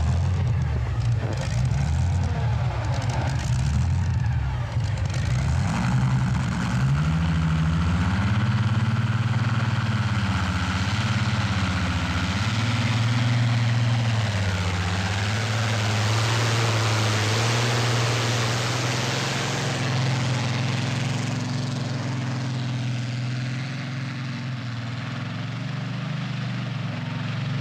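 A competition pulling tractor's engine at high revs under load. Its pitch climbs about seven seconds in, rises and falls several times, then holds steady. A loud rushing noise swells in the middle.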